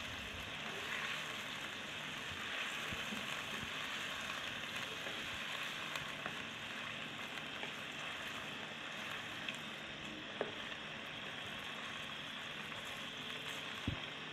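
Chicken pieces sizzling steadily in hot oil in a karahi over high heat as their water cooks off, with a few short clicks of the spatula against the pan, the loudest near the end.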